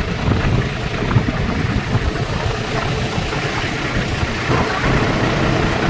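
Tractor engines running steadily, a dense low rumble with no single rev or stop standing out.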